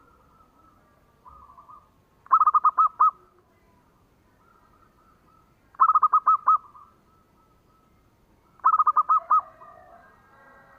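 Zebra dove (perkutut) singing: three phrases about three seconds apart, each a quick run of about six clipped cooing notes. Fainter cooing from other doves carries on underneath.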